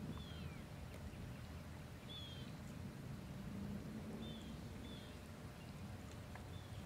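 A bird giving short, falling chirps every second or two over a low, steady outdoor rumble.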